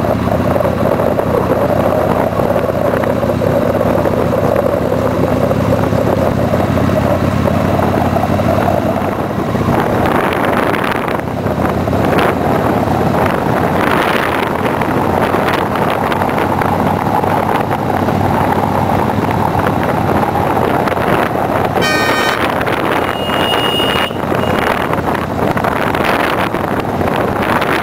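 Steady motor-vehicle engine and road noise. About 22 s in comes a quick run of clicks, then a brief high-pitched beep.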